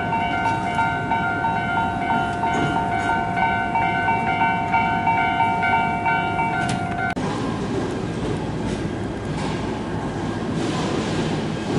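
Train at a station platform: a steady electronic tone with a rapidly repeating beep over it, cutting off suddenly about seven seconds in, followed by the rumble of a train running on the rails.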